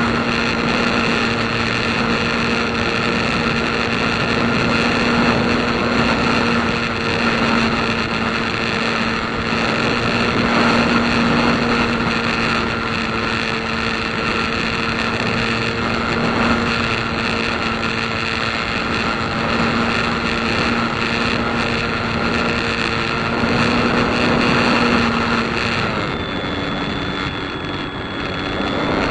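A steady engine drone under heavy wind noise on the microphone. The drone drops out about three seconds before the end, leaving the wind.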